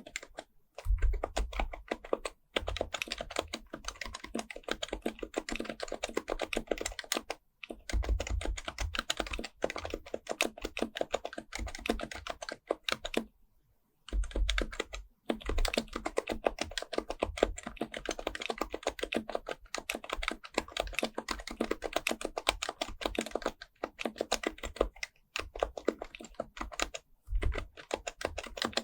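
Fast, continuous typing on an HHKB Pro Type-S keyboard fitted with a bke-9400a, its silenced Topre capacitive keys clicking in a rapid stream. The typing breaks off briefly a few times, with the longest pause about halfway through.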